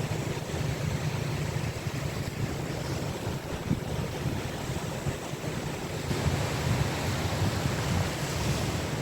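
Sea waves breaking and washing up a beach, a steady surf hiss over a heavy low rumble, with wind on the microphone. The hiss of the wash brightens about six seconds in.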